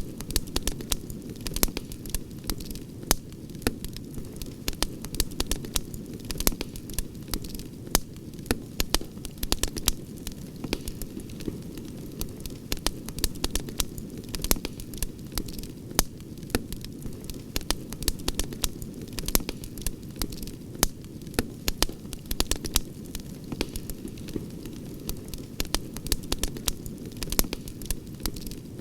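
Campfire crackling, with sharp pops at irregular intervals over a low steady rumble.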